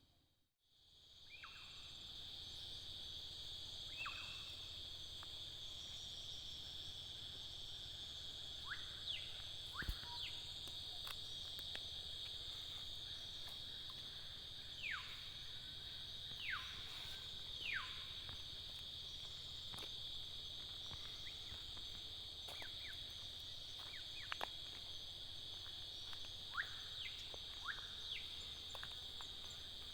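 Common hill myna giving short whistles that drop sharply in pitch, in scattered groups, over a steady high drone of insects.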